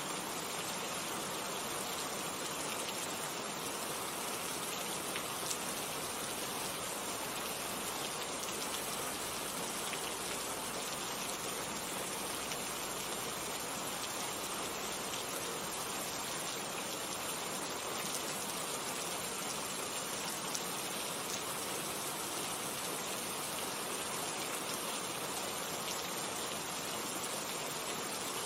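Steady rain falling, with scattered drop ticks over an even hiss.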